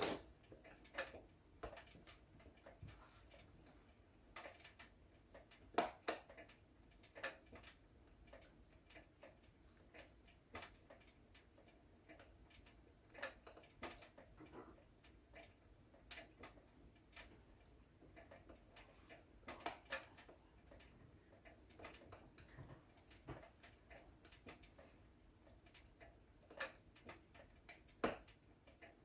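Wood fire in a fireplace crackling softly, with irregular snaps and pops over a faint hiss. Sharper pops come right at the start, about six seconds in and near the end.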